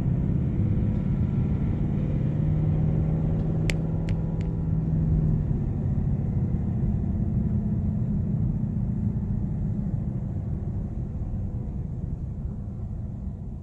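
2018 Mustang GT's 5.0 V8 engine and road noise heard from inside the moving car: a steady low drone, with a held engine tone for the first few seconds and a few sharp clicks about four seconds in, easing off slowly toward the end.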